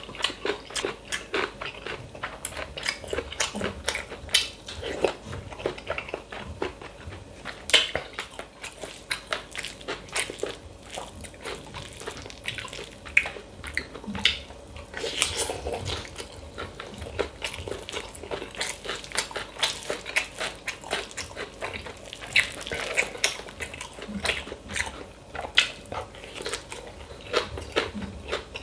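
Close-miked eating: a man chewing mouthfuls of red pepper tuna bibimbap, with a continuous stream of wet mouth smacks and clicks.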